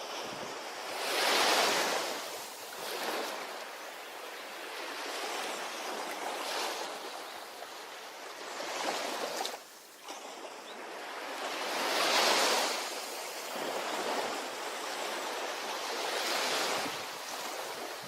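Ocean waves breaking on a beach, a steady wash of surf with waves cresting every few seconds, the strongest two near the start and about two thirds of the way through.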